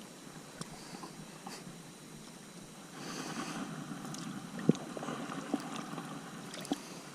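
Water sloshing and lapping around a kayak, louder from about three seconds in, with a few sharp knocks on the hull, the loudest about halfway through.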